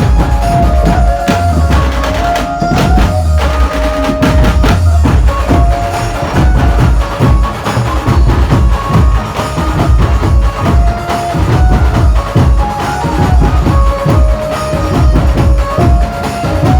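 Chhattisgarhi dhumal band music: heavy drums playing a fast, dense rhythm under a lead melody of held notes that step from pitch to pitch.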